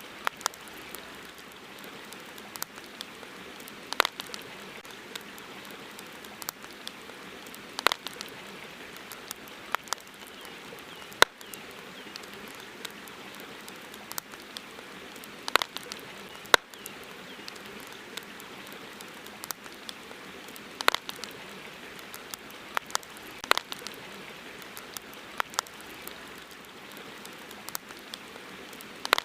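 Campfire crackling: sharp, irregular pops every second or two over a steady hiss.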